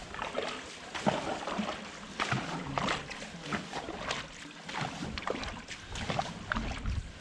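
Dragon boat crew paddling: blades catching and pulling through the water in a regular rhythm, a splash roughly every half second or so.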